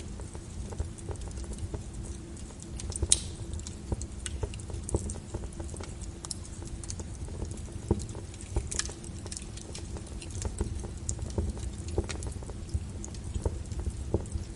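Logs burning in a fireplace: irregular sharp crackles and pops over a low rumble of flames, with the loudest pops about three and eight seconds in.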